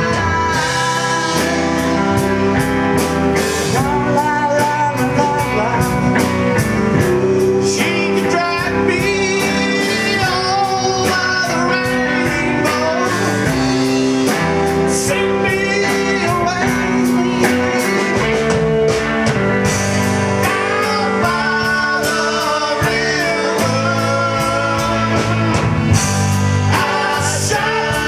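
A band playing rockabilly blues, with a lead singer and electric guitar over a steady beat.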